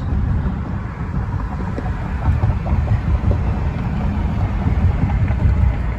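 Car interior noise while driving: a steady low rumble of road and engine noise inside the cabin.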